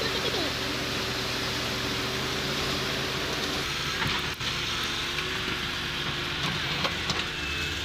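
An engine running steadily under a constant rushing noise, with a few faint clicks.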